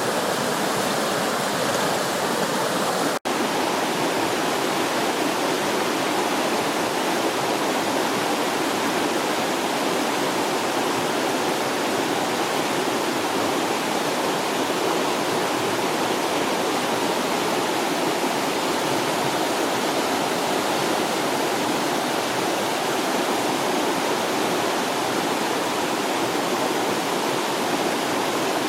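Steady rush of a fast-flowing forest creek, an even wash of water noise, broken by a momentary dropout about three seconds in.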